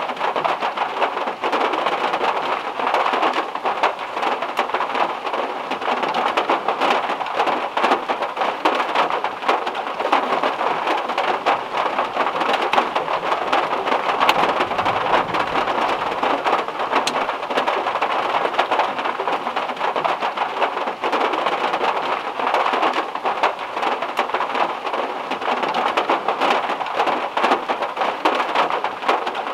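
Heavy rain drumming steadily on a car's metal roof, a dense patter of drops, with a faint low rumble of thunder about halfway through.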